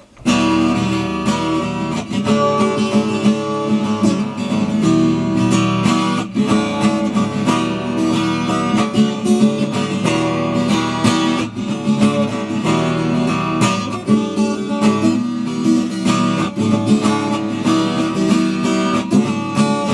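Strummed acoustic guitar playing a song's instrumental passage, starting suddenly at the beginning and keeping a steady strumming rhythm.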